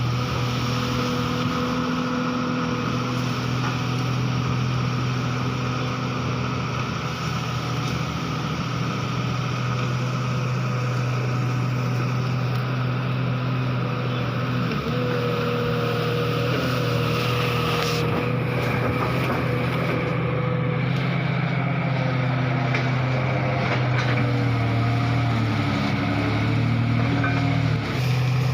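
Komatsu PC200-5 excavator's diesel engine running steadily, its note shifting a little in the second half.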